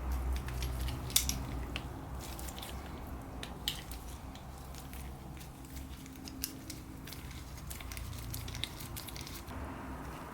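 Scattered sharp clicks and taps of hand tools and small metal parts being handled, the loudest about a second in, over a steady low hum.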